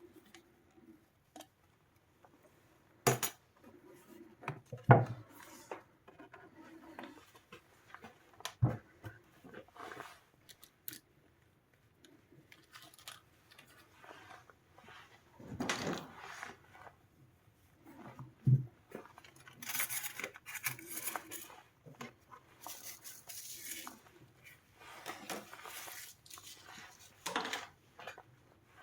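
Hands working on a soundbar at the bench: scattered knocks and clicks, the loudest about five seconds in, with stretches of scraping and rustling in the second half.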